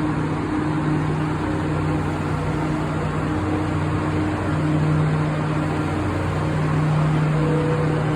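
Cassiopeia sleeper train's locomotive running with a steady low hum over a constant hiss, as the train is brought into the platform.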